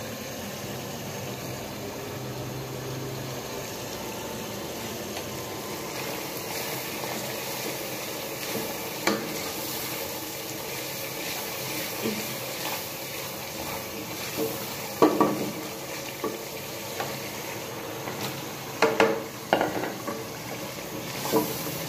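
Onion, ginger-garlic and chilli masala sizzling in oil in an aluminium pot while a wooden spoon stirs it. Now and then the spoon knocks against the pot, several times near the end.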